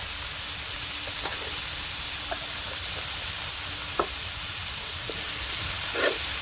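Vegetables, curry spices and ginger sautéing in oil in a large pan over a campfire: a steady sizzle, with a few light knocks and scrapes of a utensil stirring, more of them near the end.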